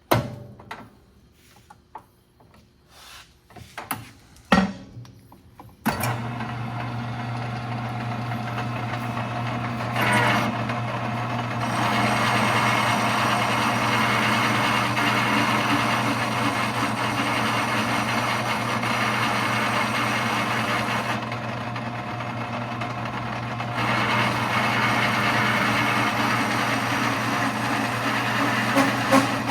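A few clicks and knocks, then a metal lathe starts about six seconds in and runs steadily with a low hum while a button cutter cuts a V into a PTO yoke. The cutting noise swells about four seconds later and eases off for a couple of seconds about two-thirds through.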